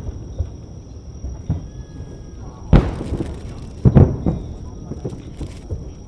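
Aerial fireworks shells bursting with deep booms that echo. A few lighter bangs come first, then one loud boom nearly three seconds in and a loud pair about a second later, followed by a run of smaller pops near the end.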